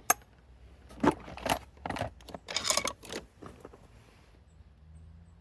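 Metal hand tools and parts clinking and rattling: a sharp click at the start, then a run of short metallic rattles over about two seconds.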